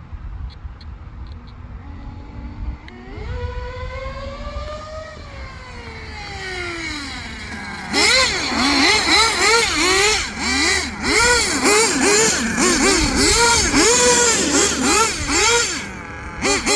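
Twin nitro engines of an RC monster truck running: a low rumble that climbs in pitch about three seconds in and sinks back, then from about halfway through loud, repeated revs rising and falling one or two times a second.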